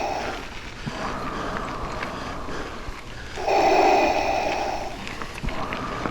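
A cyclist breathing hard after a steep hill climb: slow, deep breaths, with one long loud exhale about three and a half seconds in, between quieter, drawn-out inhales.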